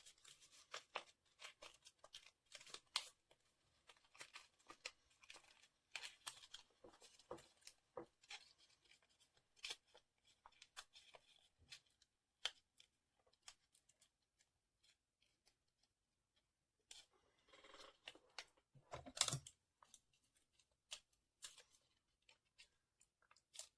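Faint scattered snips of scissors cutting paper and rustles of the paper being handled, with a louder rustle of paper shortly before the end.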